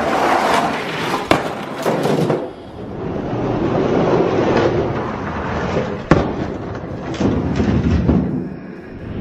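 Die-cast toy monster trucks rolling down a plastic race track, a steady rumble with several sharp knocks and clacks as they hit the track and each other.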